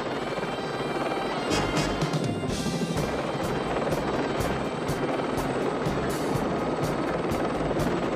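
Helicopter in flight, its rotor and turbine running steadily, mixed with a background music score.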